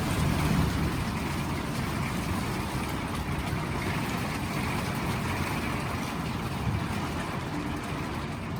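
Heavy rain pouring down hard and fast, a steady even rush.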